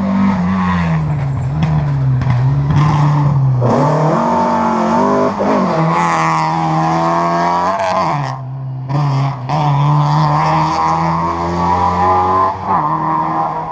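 Historic rally car engine at high revs, pitch climbing and then dropping several times as it changes gear and lifts off the throttle, with a short dip about eight seconds in before it pulls hard again.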